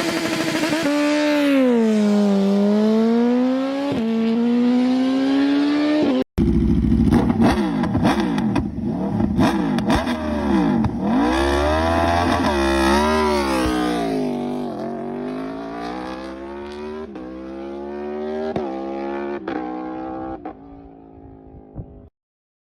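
Motor engine running and revving, its pitch rising and falling again and again. It cuts off abruptly about six seconds in and resumes with several engine notes overlapping and crossing, then fades out near the end.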